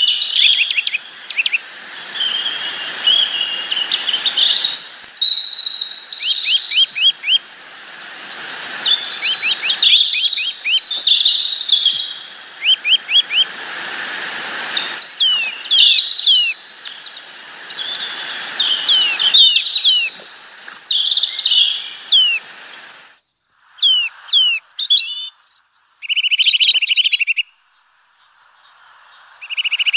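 Several small songbirds calling and singing, with many quick chirps, sweeping notes and short trills, over a steady background rush that drops away about three-quarters of the way through.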